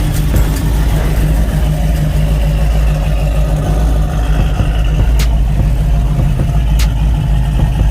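A car engine running steadily, with two sharp clicks in the second half.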